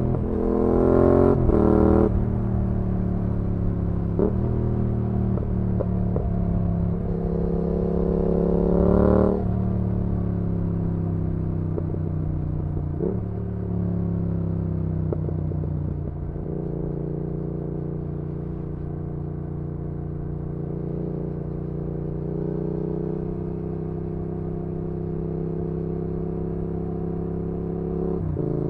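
2019 Yamaha XSR700's parallel-twin engine through an IXRACE MKII aftermarket exhaust, heard onboard: two quick climbs in revs in the first two seconds, a longer pull to about nine seconds that then drops away, then steady cruising.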